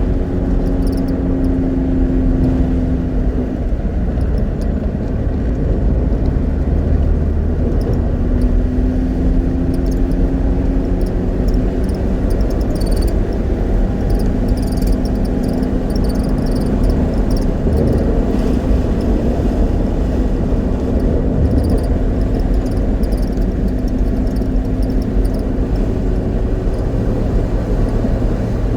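A car being driven: steady engine and road rumble, with the engine note shifting in pitch every few seconds.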